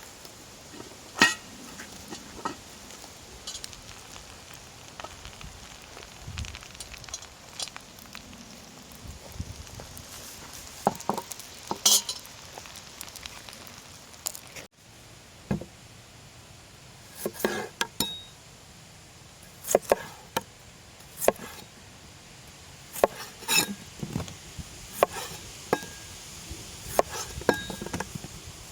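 Food sizzling in a pan, with metal utensils knocking and clinking against the pan and dishes every second or two.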